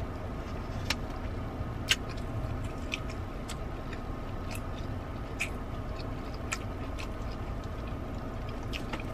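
Close-up chewing and biting of a cheesy mozzarella corn dog, with scattered irregular mouth clicks, over a steady low hum of the car's air conditioning.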